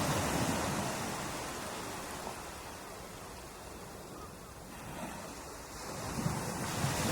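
Ocean waves washing onto a beach: one wave's surge fades into a lull, and the next swells in about six seconds in.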